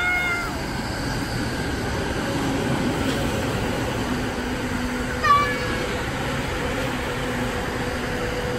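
An electric train's horn trailing off about half a second in, then the train running along the tracks with a steady rumble. A brief, loud, high-pitched sound cuts in about five seconds in.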